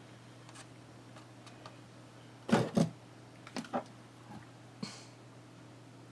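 A few knocks and clicks of small objects handled on a craft table: two sharp knocks close together, two softer ones a second later, then one more.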